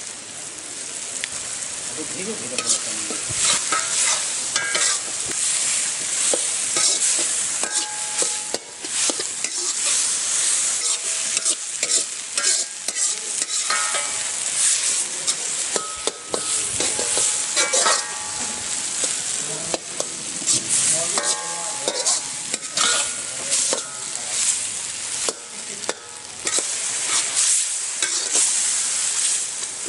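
Sliced onions and ground spice pastes sizzling steadily as they fry in a black iron kadai, while a metal spatula stirs and scrapes against the pan with frequent clinks.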